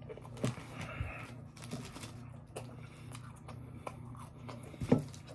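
Close-up eating sounds of a person biting into and chewing a fried chicken tender sandwich, with small wet smacks and clicks scattered through, the sharpest near the end, over a steady low hum.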